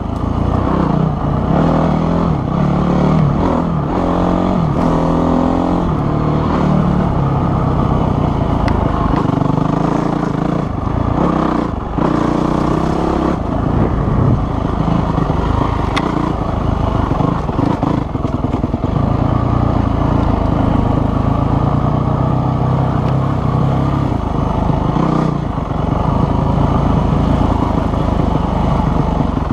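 Dirt bike engine running as the bike is ridden, its revs climbing in several steps in the first few seconds, then running fairly steadily with brief dips in throttle.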